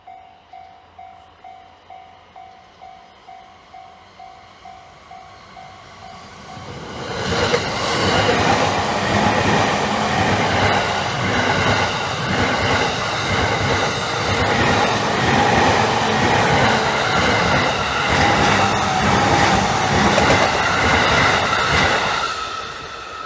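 Japanese level-crossing warning bell ringing in even pulses about twice a second. After about seven seconds a Takasaki Line electric train arrives and passes loudly over the crossing for about fifteen seconds, dying away near the end.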